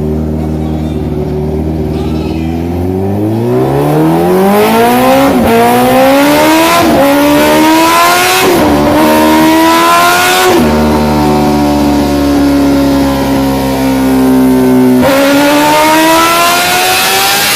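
Big motorcycle's exhaust under acceleration: the engine note climbs in pitch from about two seconds in, drops sharply and climbs again several times as it shifts up through the gears, holds steady for a few seconds, then climbs again near the end.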